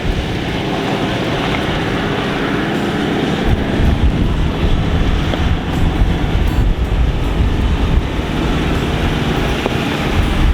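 Four-wheel drive vehicle driving along a rough mountain track: a steady rumble of engine and tyres with rattles, getting heavier about a third of the way in.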